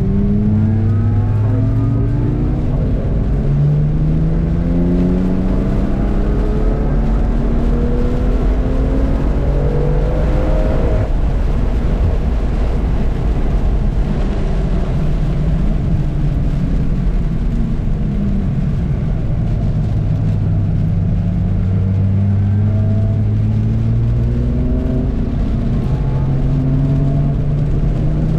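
A car engine pulling hard on a race track. Its pitch climbs for about ten seconds, drops back and runs lower for several seconds, then climbs again near the end.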